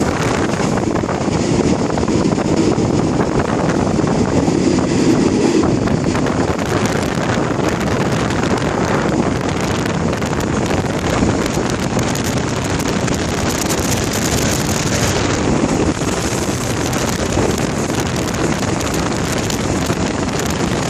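Steady rushing noise of a moving train heard from a window of the train, with wind buffeting the microphone.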